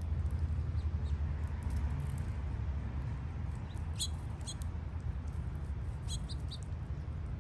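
Small birds chirping: a few short, high chirps in two brief clusters, about halfway through and near the end, over a steady low rumble.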